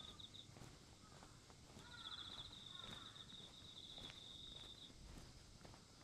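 An insect trilling in a rapid, even pulse at one high pitch. It stops about half a second in and starts again near two seconds, running for about three seconds. Soft, steady footsteps of someone walking underneath.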